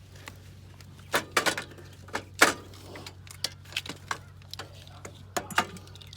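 Sharp metallic clanks and clicks of hand tools and parts being worked on a quad's engine, about eight in all, the loudest about two and a half seconds in, over a low steady hum.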